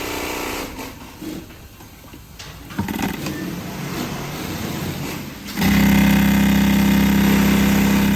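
Direct-drive industrial sewing machine with compound top-and-bottom feed, stitching in short stretches, then running at a steady high speed for the last couple of seconds before stopping abruptly.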